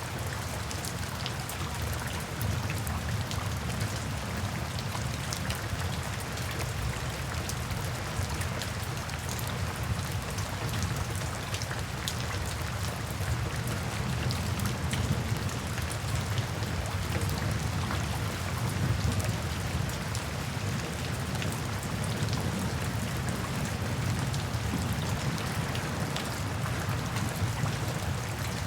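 Steady rain falling, with a low rumble underneath and many small sharp ticks scattered through it.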